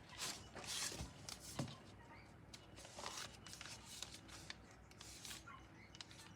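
Faint, irregular rustling and scraping of paper being handled, with a few soft taps.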